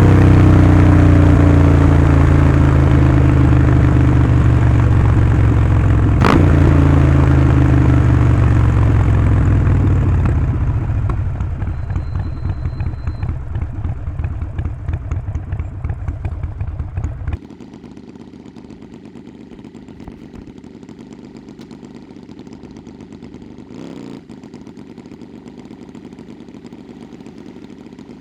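Harley-Davidson Sportster 48's air-cooled V-twin through a Vance & Hines slip-on exhaust, loud, its pitch falling as the bike slows down off the throttle. About two-thirds through the sound drops suddenly to a much quieter, steady low rumble.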